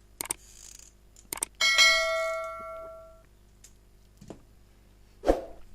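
A metal object is struck and rings with a clear bell-like tone that fades over about a second and a half. A few light clicks come before it and a couple of soft knocks after it, from workbench handling.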